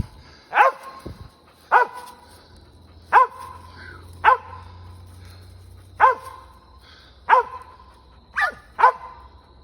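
Squirrel dog barking treed, eight sharp barks spaced about a second apart with uneven gaps: the sign that it has a squirrel up a tree.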